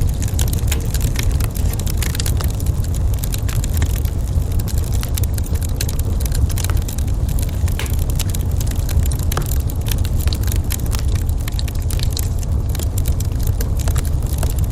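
Wood fire crackling in a fireplace, with frequent irregular small pops and snaps over a steady low rumble.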